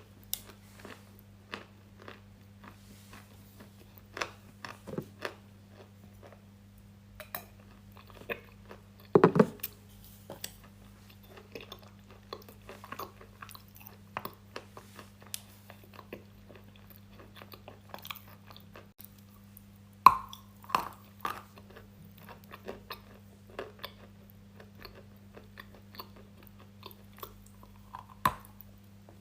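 Close-miked crunching and chewing of crisp food, many small crackly bites, with louder crunching bites about nine seconds in and again about twenty seconds in, over a steady low hum.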